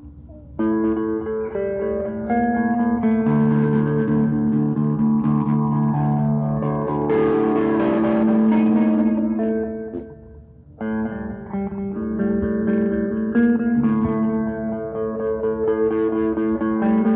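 Donner DMT-100 electric guitar being played: ringing chords and single notes that overlap as they sustain. A brief lull comes a little past halfway before a fresh chord rings out.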